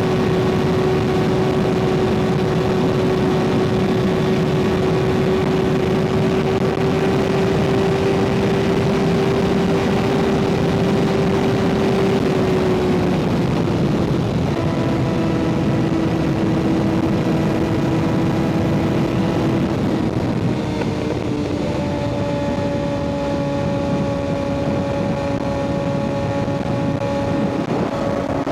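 Kawasaki ZX-6R 636 inline-four with an M4 aftermarket exhaust, running steadily while riding, with wind rush over the microphone. The engine note holds a constant pitch, then steps lower about halfway through and again about two-thirds of the way in.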